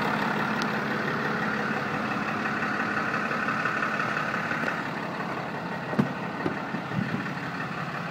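The 6.7L Cummins diesel of a Dodge Ram 5500HD truck idling steadily, with a couple of light knocks near the end.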